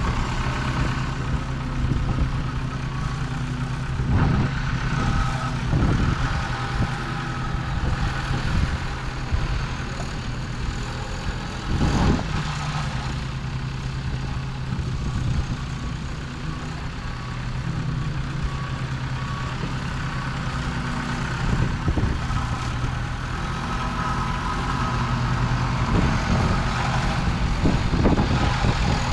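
A heavy diesel machine's engine running steadily while it works fill dirt, with a few short knocks or clanks at irregular times.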